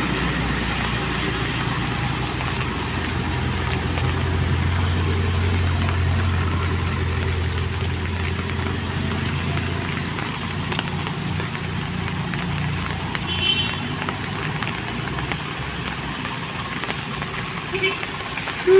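A truck engine running, its low drone swelling to its loudest a few seconds in and then fading as it goes by.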